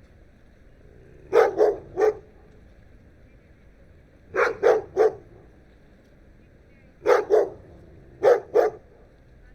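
A dog barking in short groups: three barks, then three, then two, then two, each group a few seconds after the last.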